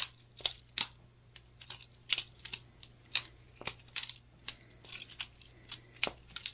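Boker Plus balisong butterfly knife being flipped: sharp metallic clicks, irregular at about two or three a second, as the handles and blade swing round and clack together.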